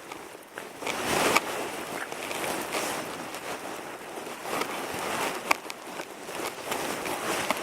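Dry twigs and branches rustling and knocking together as they are stacked into a teepee fire lay, with a few sharp cracks, the loudest a little past halfway.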